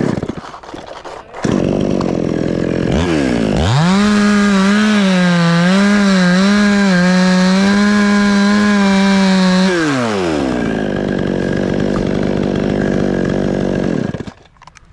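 Two-stroke chainsaw revved to full throttle about three seconds in, its pitch wavering and dipping as it cuts into wood. It drops back to a lower run around ten seconds and cuts off near the end.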